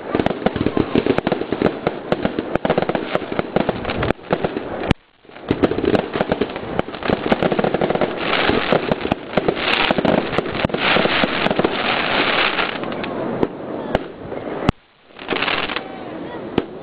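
Aerial fireworks bursting overhead: dense crackling and popping with many sharp bangs. The sound drops out for a moment twice, about five seconds in and near the end.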